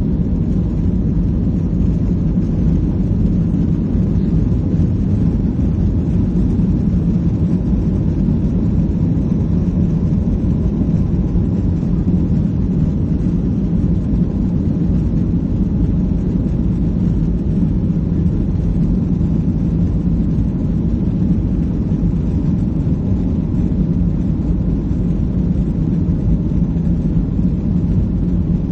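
Boeing 737-800's CFM56 jet engines at high thrust, heard inside the passenger cabin: a loud, steady low rumble.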